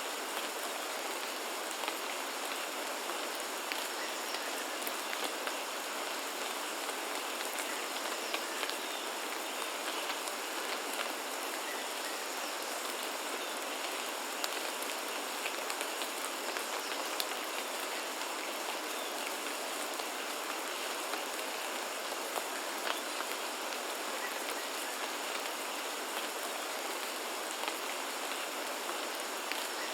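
Steady rainfall: an even hiss of rain with scattered sharp ticks of single drops hitting surfaces.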